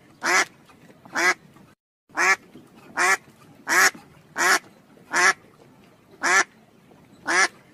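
Duck-like quacks: short, loud calls repeated about once a second, nine in all, with a brief dead-silent break just before the second second.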